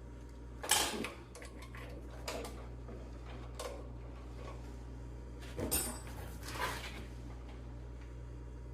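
Hand tools clinking and knocking against metal, a handful of separate short knocks, as a carburetor is taken apart. A steady low hum runs underneath.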